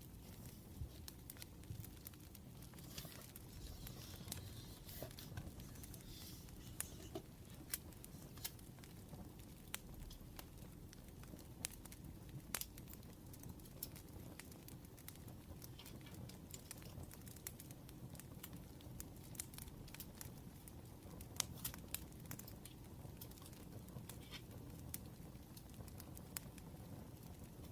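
Faint wood fire crackling: irregular sharp pops and snaps over a low steady rumble.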